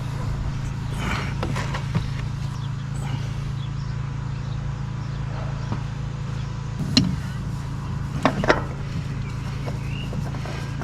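Hand work on a vehicle during an oil change: a few scattered sharp knocks and clinks of tools and parts, the loudest about seven seconds in and two close together about eight and a half seconds in, over a steady low hum.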